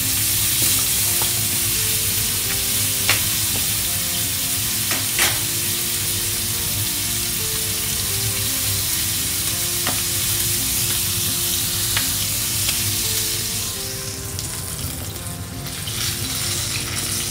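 Chicken legs sizzling as they fry in hot olive oil in a frying pan, a steady spitting hiss with a few sharp ticks about three and five seconds in. The sizzle eases a little shortly before the end.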